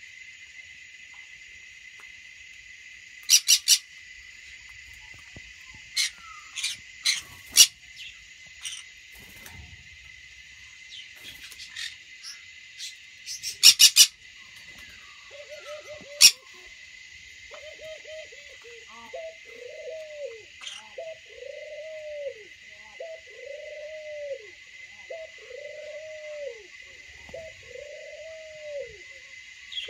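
Birds calling: loud, sharp calls in short clusters through the first half, then from about halfway a regular run of low, arched, cooing calls about once a second. A steady high hiss runs underneath.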